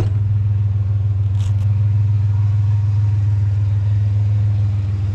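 Vehicle engine running steadily, a low, even hum that holds the same pitch throughout. A sharp click at the very start.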